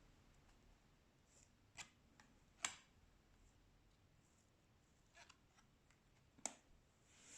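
Oracle cards being handled in a near-silent room: a few light clicks and taps of card stock, the sharpest about two and a half seconds in and again about six and a half seconds in.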